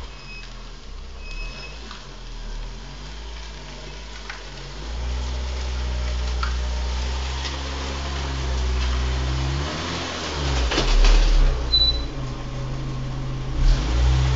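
Skoda Felicia's engine running at low speed as the car creeps into the garage. It gets louder about a third of the way in, and a few louder swells come near the end.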